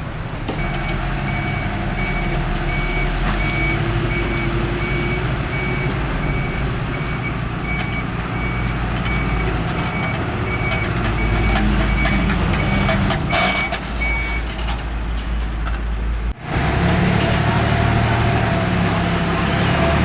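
Heavy diesel construction machinery running with a deep engine rumble, while a reversing alarm beeps steadily on and off about one and a half times a second. The beeping stops about three-quarters of the way through, and the engine sound changes abruptly near the end.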